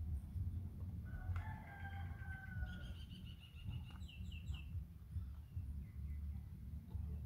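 Outdoor bird calls: one long, steady call about a second and a half in, then a run of quick high chirps and three short falling notes, over a steady low background rumble.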